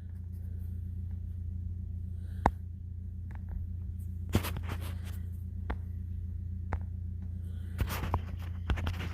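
A steady low machine hum fades in within the first second and holds, with scattered sharp clicks and knocks over it.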